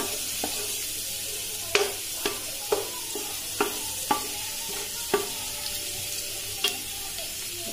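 Chopped ginger and garlic sizzling steadily in hot oil. A wooden spatula stirs them, knocking sharply against the pan about ten times at uneven intervals.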